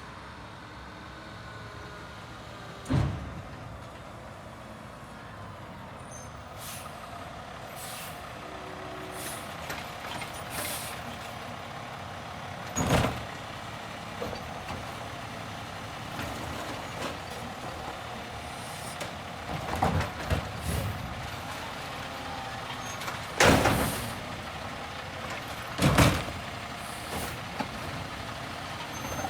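Garbage truck running steadily, broken by about five short, loud, sharp bursts of noise, the loudest about three-quarters of the way through.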